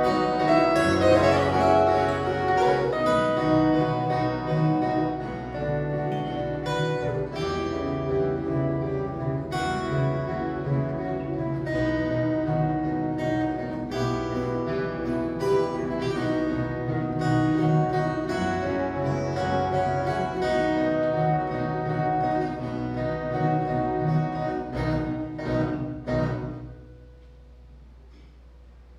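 An ensemble of violas caipira (ten-string Brazilian folk guitars) playing a Folia de Reis offering-thanksgiving tune, with plucked strings over low bass notes. The piece ends about 26 seconds in, leaving only faint room tone.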